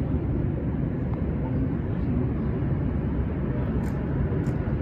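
Steady low rumble of a jet airliner's engines at the airport, a heavy jet cleared for takeoff on runway 24 left.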